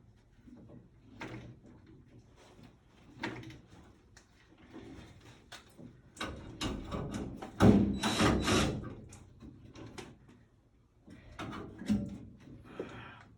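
Scattered knocks and clunks from parts and tools being handled during a furnace installation, with a louder burst of rattling clatter about eight seconds in.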